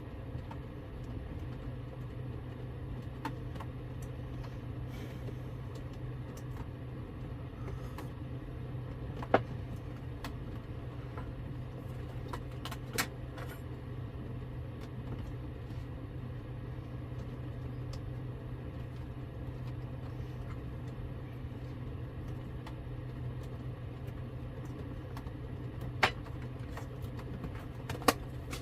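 Steady low mechanical hum with a few sharp clicks or knocks, the loudest about nine seconds in and near the end.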